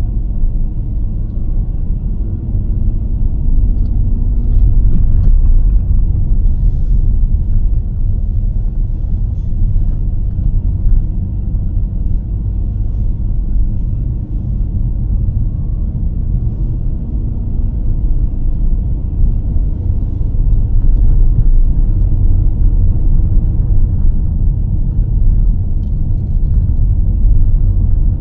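Car driving along a narrow road: a steady low rumble of engine and tyres, with a few small ticks and knocks now and then.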